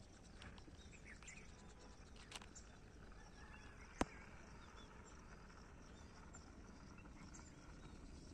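Faint open-air background noise with a few scattered, faint bird chirps, and a single sharp click about four seconds in.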